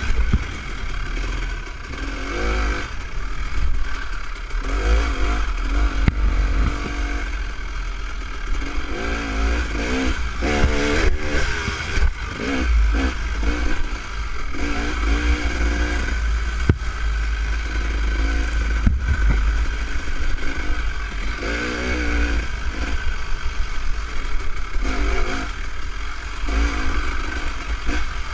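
Dirt bike engine running at modest speed on a motocross trail, revving up and down every second or two over a steady low rumble.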